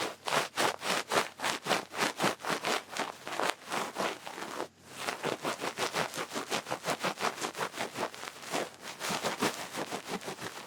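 Duck-feather ear pick brushing and scratching close to the microphone in quick, even strokes, about four a second, with a brief pause about halfway through.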